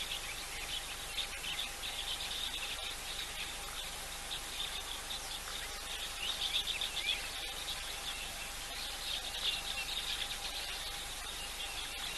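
Small birds chirping over a steady background of insects; the chirping grows busier about halfway through and again near the end.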